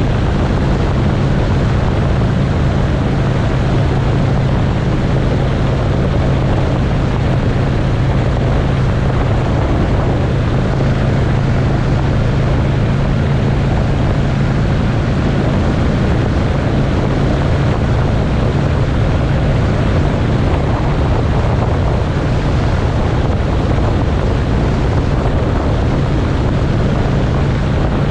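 Motorcycle engine running at a steady cruise with loud, steady wind rush over the microphone.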